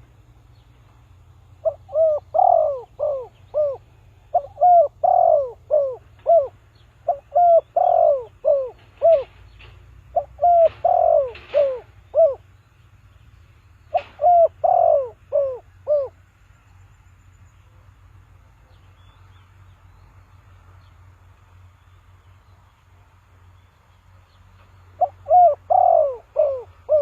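Spotted dove cooing: about six phrases, each of four or five falling notes, repeated every couple of seconds, then a long pause before one more phrase near the end.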